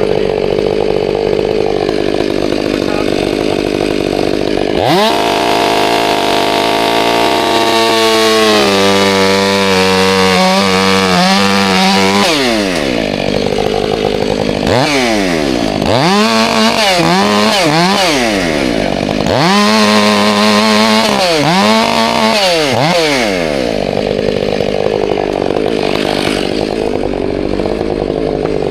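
Chainsaw idling, then run up to full throttle at about five seconds and cutting, its pitch rising and falling repeatedly as the throttle is worked, before dropping back to idle near the end.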